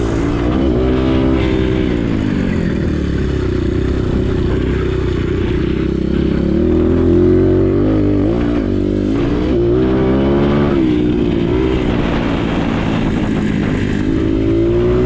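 Motocross bike engine heard from the rider's onboard camera, its pitch rising and falling as the throttle is opened and closed, with several quick revs near the middle and again near the end.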